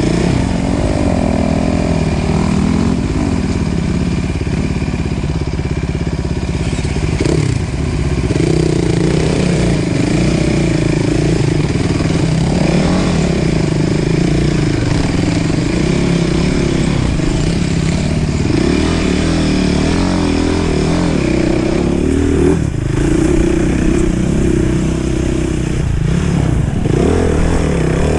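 Enduro motorcycle engine heard close up from the bike carrying the camera, running at low revs and rising and falling in pitch with short throttle changes as it climbs a rocky trail.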